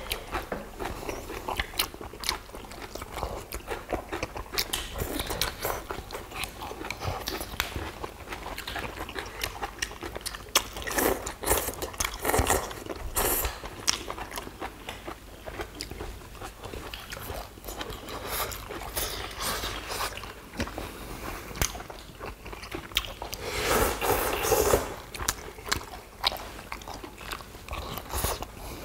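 Close-up eating sounds from people chewing and biting food, with crunchy bites and many short clicks throughout; it swells louder twice, about halfway through and again near the end.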